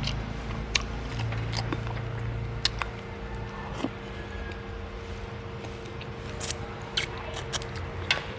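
A person chewing a mouthful of fish and rice: scattered short wet mouth clicks over a steady faint hum.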